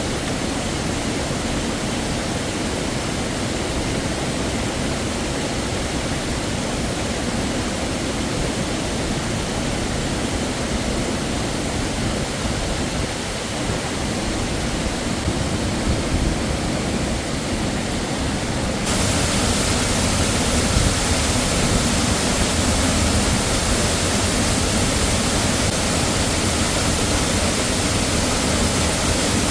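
Waterfall rushing: a steady, even noise of falling water that suddenly gets louder and brighter about two-thirds of the way through.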